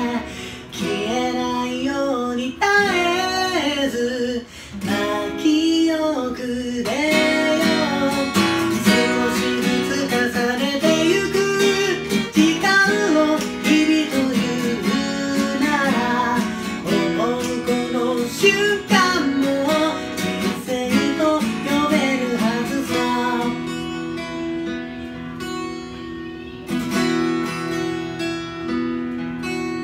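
Acoustic guitar strummed under a wordless sung melody. The voice stops about two-thirds of the way through, leaving the guitar playing chords alone as an outro.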